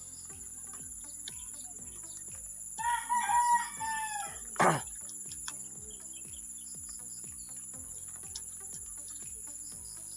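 One long pitched animal call, starting about three seconds in and lasting about a second and a half, followed by a sharp knock. A steady high insect-like chirring runs underneath.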